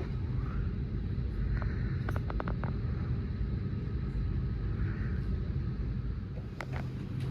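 Airbus A320neo cabin at the gate: a steady low rumble of the aircraft's air supply, with a quick run of sharp clicks about two seconds in and two more clicks near the end.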